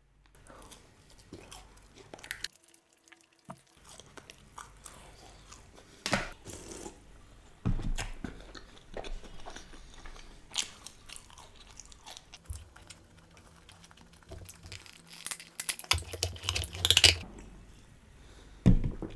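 Close-miked chewing and crunching bites of a breaded fish finger dipped in sauce and of french fries, coming in irregular spurts, with the loudest run of crunches about three-quarters of the way through.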